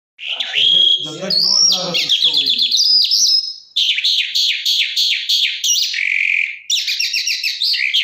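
Small caged bird singing a long, fast song of rapid trills and sweeping whistled notes, with brief breaks. A man's voice is heard low underneath in the first few seconds.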